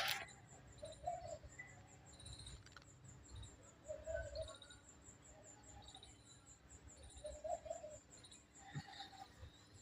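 Birds calling faintly: short low cooing notes every second or two and scattered high chirps, over a low rumble.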